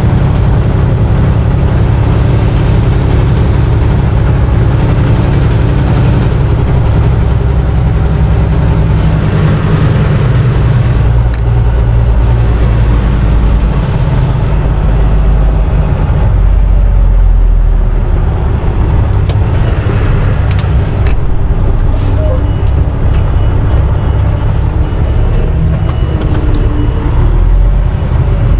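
Semi-truck's diesel engine running with a steady low rumble, heard from inside the cab, with a few scattered clicks in the second half.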